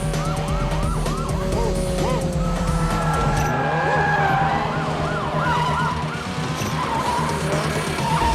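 Several police car sirens sounding at once, their pitch sweeping quickly up and down in repeated arcs, over a steady low hum.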